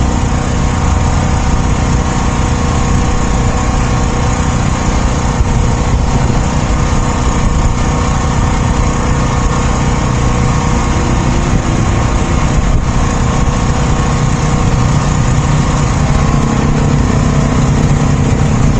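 Motor vehicle engine running steadily and close by, with another engine tone joining near the end.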